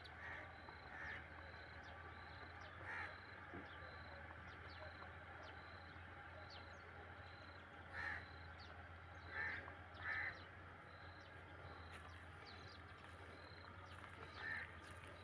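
Faint outdoor background with about seven short, harsh bird calls spaced irregularly through it, caw-like. A faint, steady high-pitched pulsing runs underneath.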